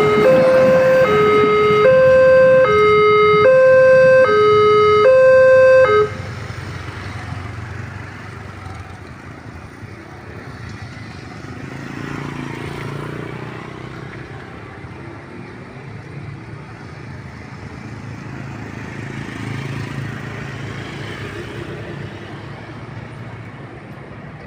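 Railway level-crossing warning alarm sounding a loud two-tone chime that alternates between a high and a low note about once a second, then cuts off abruptly about six seconds in. A quieter low rumble of road vehicles follows.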